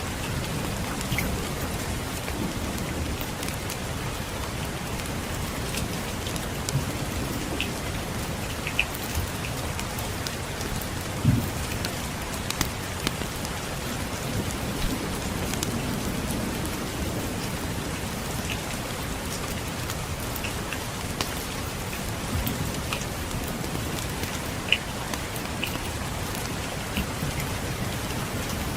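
Steady rain, with scattered crackles and pops from a wood fire and faint low rumbles of distant thunder. A sharp pop about eleven seconds in is the loudest sound.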